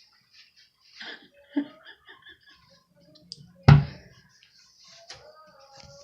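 A toddler's short giggles and small vocal noises, with one sharp knock a little past halfway.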